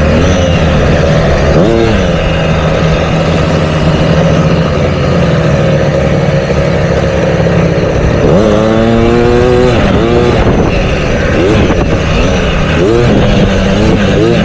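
Motocross dirt bike engines revving up and down through the gears, with a strong rising rev about eight seconds in.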